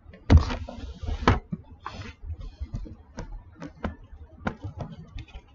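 Plastic toy building pieces being handled and pressed together, giving a string of irregular sharp clicks and taps. The two loudest come a third of a second in and just after a second in.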